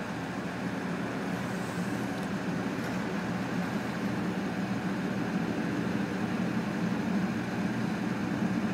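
A steady low mechanical hum over an even rushing noise, unchanging throughout.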